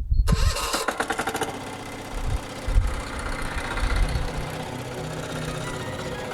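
Motor Sich MB-9DE walk-behind tractor's diesel engine just started: it runs loud and uneven, with rapid pulses, for the first second or so, then settles into a steady idle.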